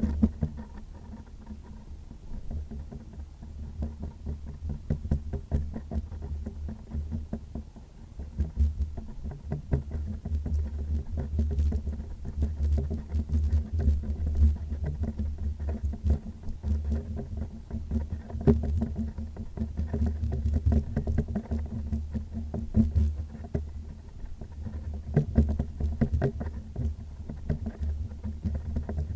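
Wind buffeting the camera microphone as a gusty, fluctuating low rumble, with many scattered small clicks and rustles from handling.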